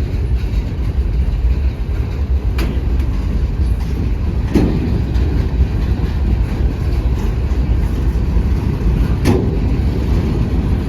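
Freight cars of a CSX local train rolling past: a steady low rumble with three sharp clanks spread through it.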